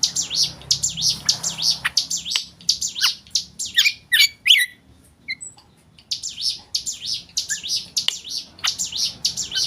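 Black drongo singing a fast run of varied high chirps, with a few falling whistles just before a pause of about a second in the middle, after which the chirping resumes.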